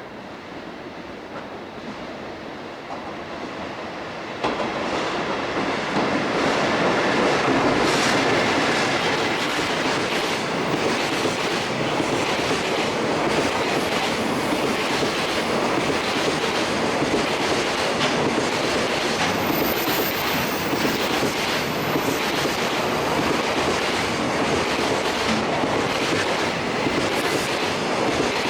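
JR Freight ED76 electric locomotive hauling a long freight train past. It approaches more quietly, then about four seconds in the sound jumps to a steady loud rumble as the wagons roll by, with the clickety-clack of wheels over rail joints and a faint high wheel squeal about twenty seconds in.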